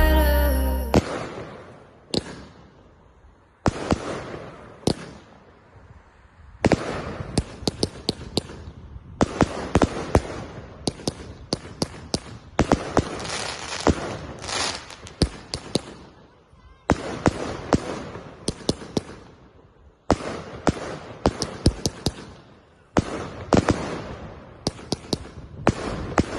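Fireworks going off in repeated volleys of rapid sharp cracks and crackling, each volley starting suddenly and lasting two to three seconds, with short lulls between. Music cuts out about a second in.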